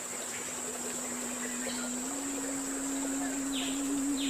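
Outdoor nature ambience: a steady high-pitched insect drone with two short falling chirps near the end, under a low held tone that steps up a little in pitch about two seconds in.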